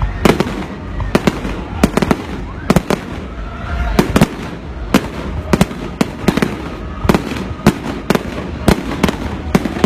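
Aerial fireworks bursting: a continuous, irregular run of sharp bangs, about two a second, over a low background of voices.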